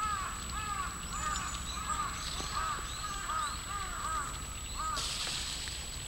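A bird calling a steady run of short, arched notes, about two a second, stopping about five seconds in, followed by a brief hiss.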